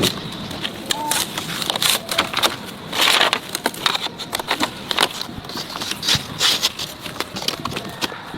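Dense, irregular crackling and rustling with many sharp clicks, louder for a moment about three seconds in.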